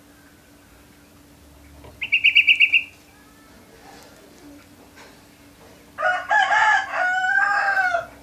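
Canary giving a short, rapid high trill about two seconds in. Near the end comes a louder, lower-pitched two-part call lasting about two seconds, which sounds like a rooster crowing.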